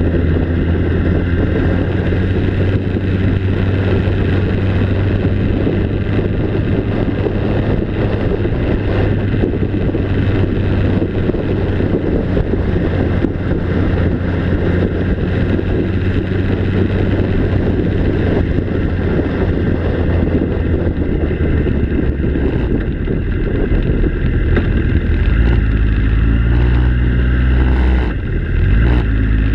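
A motor vehicle's engine running with a steady low drone and some wind noise; near the end the engine note shifts in pitch.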